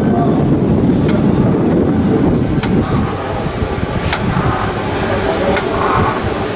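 Steady low machinery rumble with a sharp click about every one and a half seconds.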